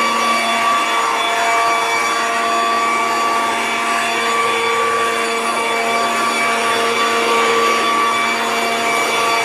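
Electric leaf blower running steadily with a whine, blowing the last ash out of a fireplace.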